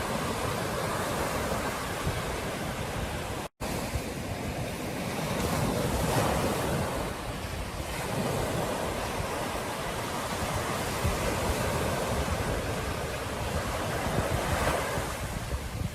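Ocean surf breaking and washing on a beach, rising and falling in slow swells, with wind rumbling on the microphone. The sound cuts out completely for an instant about three and a half seconds in.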